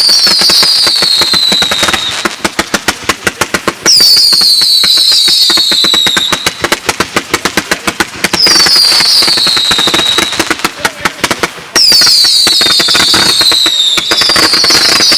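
Consumer fireworks going off in a rapid, dense string of cracks and pops. About every three to four seconds a group of whistling shots rises over it, each a high whistle that falls in pitch over a couple of seconds.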